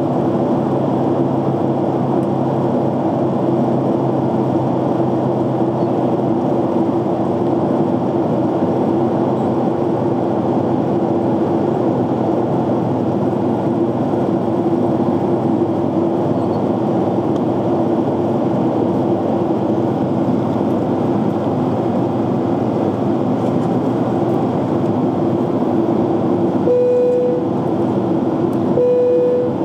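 Airliner cabin noise in cruise: a steady roar of jet engines and airflow with a low, even hum. Near the end a higher steady tone sounds twice, each about a second long.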